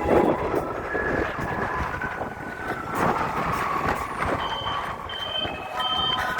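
Garbage compactor truck at work: mechanical running noise with held whining tones. From about two-thirds of the way in, a high warning beep repeats about twice a second.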